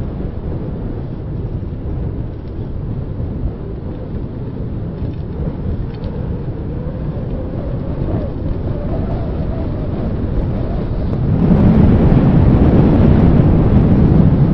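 Wind buffeting the microphone of a handheld camera on a moving bicycle: a steady low rumble that grows louder about eleven seconds in.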